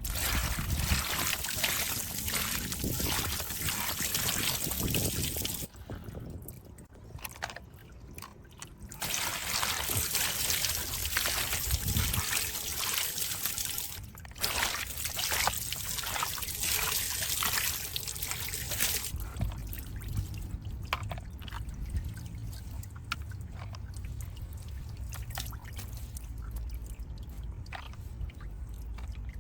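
Water trickling and pouring in stretches with short breaks, as when rinsing a small model truck; after about 19 s the hiss of water stops and only quieter small clicks and scrapes are left.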